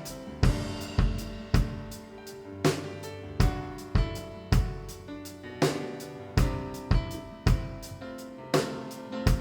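Instrumental worship music: a drum kit with bass drum, snare and cymbals keeping a steady beat of about two hits a second over sustained chords, with no singing.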